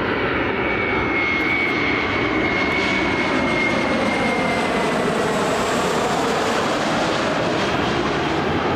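Boeing 737-300's CFM56 jet engines passing close by, a loud steady rush with a high fan whine that slowly slides lower in pitch as the plane goes past.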